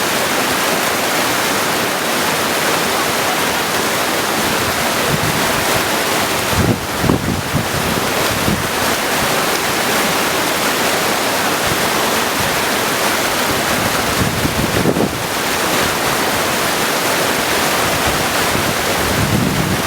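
Mountain creek rushing over stones in a steady loud wash. Low rumbles of wind buffet the microphone a few times, about seven and fifteen seconds in and near the end.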